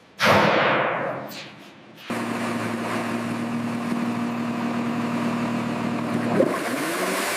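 A sudden loud whoosh that fades away over about two seconds. Then a steady mechanical hum with a low droning tone sets in, and near the end a click is followed by the tone rising in pitch.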